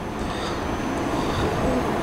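A train moving at the station platform: a steady rumble of wheels and running gear that slowly builds, with a few faint high squeals.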